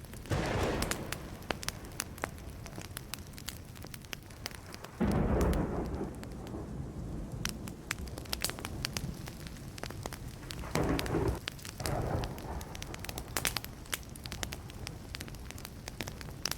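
Wood fire crackling and popping steadily, with several rumbles of thunder breaking in, the loudest about five seconds in.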